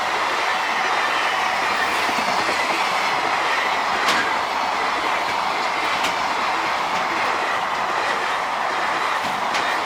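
Container freight train passing close by at speed: a steady loud rolling rumble of the wagons, with a few sharp clicks as wheels cross rail joints.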